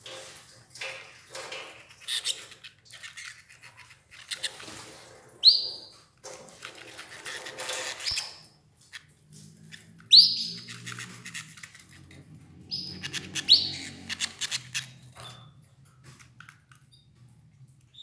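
Domestic canaries giving four short, sharp chirps, amid rapid clicking and rustling as they peck and tear at escarole leaves.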